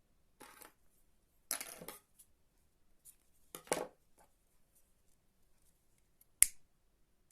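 Ribbon being handled and cut with scissors: three short scraping sounds a second or two apart, then one sharp click about six seconds in.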